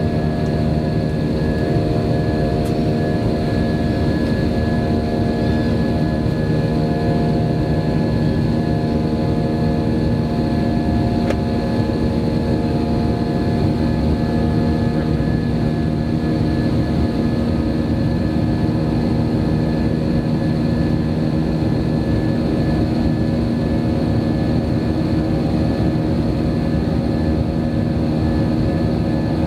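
Jet engine noise of an Airbus airliner heard inside the passenger cabin from a window seat: a steady, loud drone with several steady hums and whines held at the same pitch.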